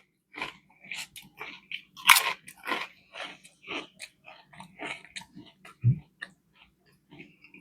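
A person chewing and biting into crunchy food, with a dense, irregular run of sharp crunches; the loudest crunch comes about two seconds in.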